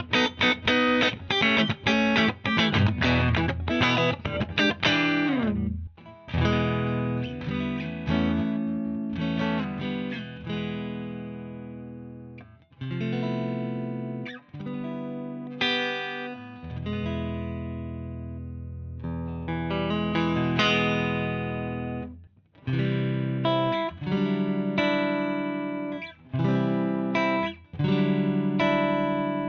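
Electric guitar played through a Wampler Ego 76 mini compressor pedal. It starts with a fast picked rhythm for about five seconds, then moves to single chords struck every few seconds and left to ring out with long sustain.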